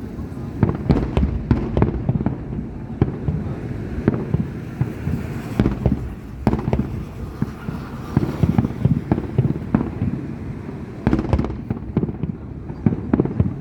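Fireworks display: aerial shells bursting in rapid, irregular volleys of booms and crackles, with a denser flurry of bangs about eleven seconds in.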